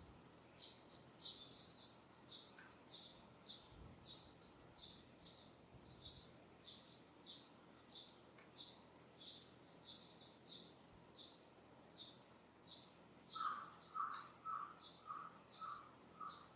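Faint birdsong: one bird repeats a short, high chirp evenly, about three times every two seconds. Near the end a second, lower-pitched bird gives a quick run of about six notes.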